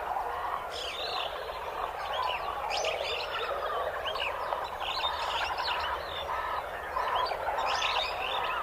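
Jungle ambience: many birds chirping and calling over a dense, steady background chorus.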